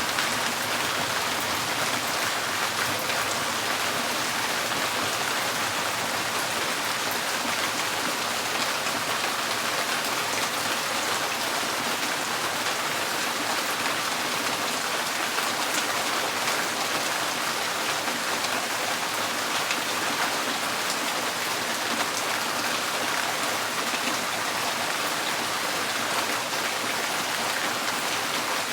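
Steady rain drumming on a tin porch roof: a dense, even patter of many drops.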